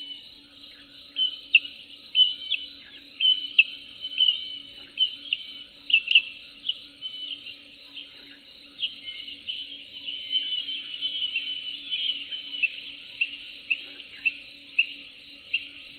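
Birds singing: a busy run of short, sharp chirps and trills, irregularly spaced, over a faint steady low tone.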